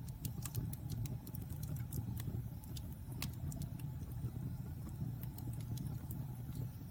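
Wood fire in a fireplace burning with a steady low rumble, crackling and popping throughout; a quick cluster of crackles in the first second and a sharper pop about three seconds in.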